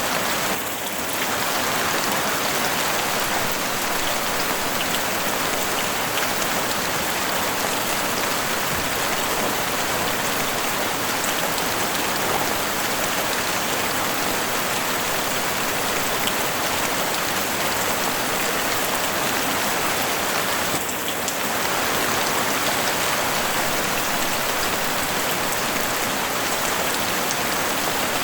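Heavy rain falling steadily on a house roof, a dense even hiss of drops that dips briefly twice.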